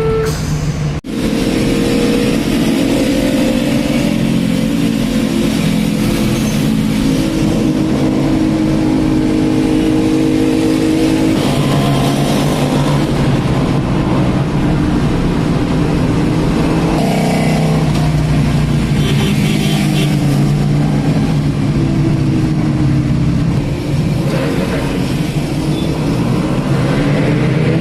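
Motorcycle engines running and revving, their pitch rising and falling, with a brief break in the sound about a second in.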